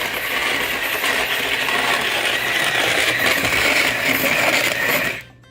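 Nostalgia electric snow cone maker shaving ice cubes with its motor-driven blade: a loud, steady grinding rattle that cuts off suddenly near the end when the button is released.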